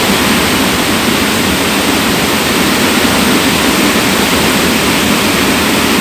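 Loud, steady rush of fast-flowing water from a river swollen by heavy rain.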